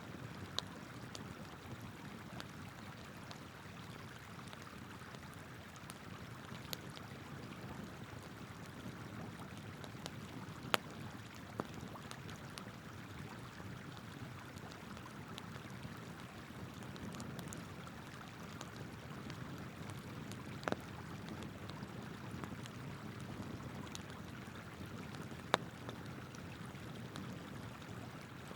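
Wood campfire crackling, with a handful of sharp isolated pops, the loudest about eleven seconds in and near the end, over the steady rush of flowing river water.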